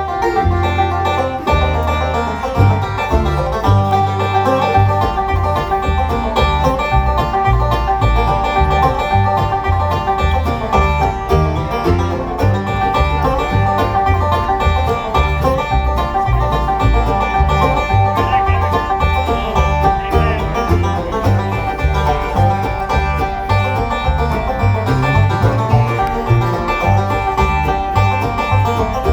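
Bluegrass band playing an instrumental live, a five-string banjo picking over guitar with a steady pulse of low bass notes.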